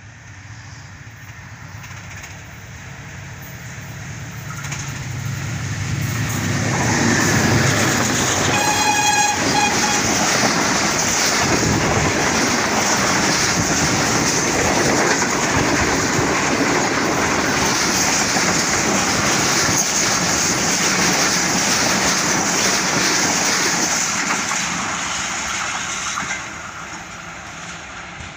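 Diesel-hauled passenger train approaching and then passing close by at speed. Its noise builds over the first several seconds, a short horn blast sounds about nine seconds in, and the steady roar and rattle of the coaches running past drops off sharply a couple of seconds before the end.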